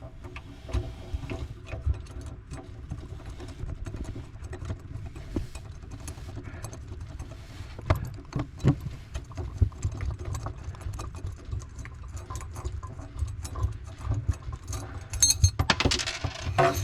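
Small metallic clicks, knocks and rattles of a nut being unthreaded by hand from a faucet water-line fitting under a kitchen sink. A louder burst of handling noise comes near the end.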